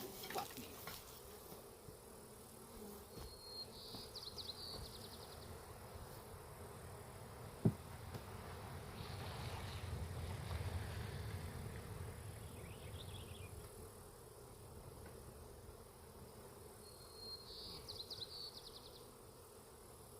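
Honeybees buzzing in the air around a disturbed, broken-open hive. A short high trill sounds twice, and a single sharp knock comes about a third of the way in.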